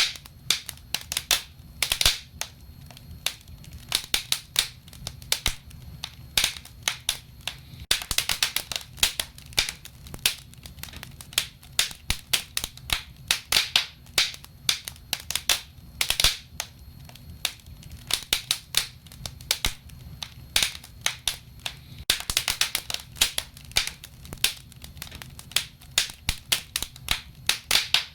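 Wood fire burning in a fireplace, crackling and popping in irregular clusters of sharp snaps over a low steady rumble of the flames.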